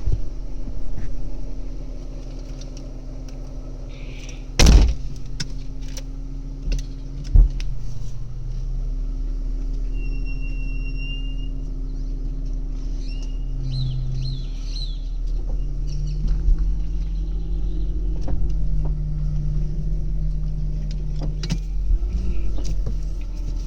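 BMW 323ci's inline-six engine heard from inside the cabin while driving, running steadily and rising to a higher pitch about two-thirds of the way through. A sharp thump about five seconds in.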